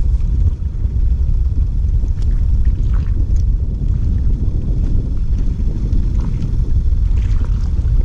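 Wind buffeting the microphone: a steady low rumble, with a few faint ticks from the kayak.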